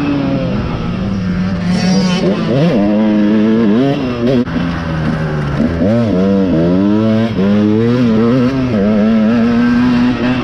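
Dirt bike engine on a motocross track, revving up and down, its pitch repeatedly rising and falling with the throttle and gear changes.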